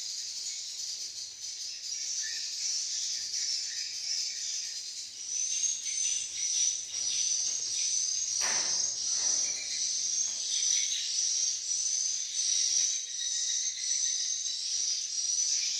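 Swiftlets twittering: a dense, steady chatter of short, high chirps repeating several times a second, with a single knock about halfway through.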